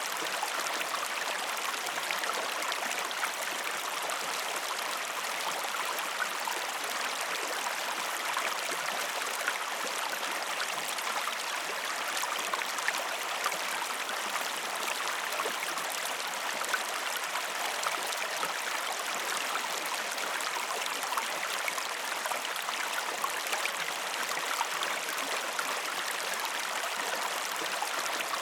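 Stream flowing steadily: a continuous babble of running water with many small splashes and drips.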